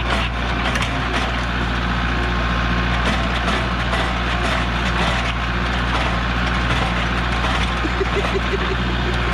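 Tractor engine idling steadily, with a few light clicks over it.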